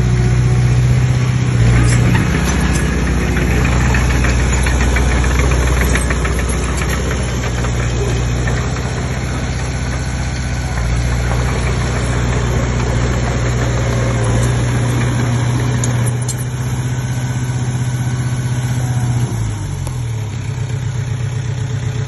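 Komatsu D20P bulldozer's diesel engine running steadily; about nineteen seconds in the engine note drops to a lower speed.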